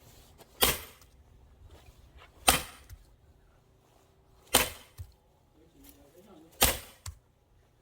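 Axe blows splitting firewood logs: four sharp cracks, evenly spaced about two seconds apart.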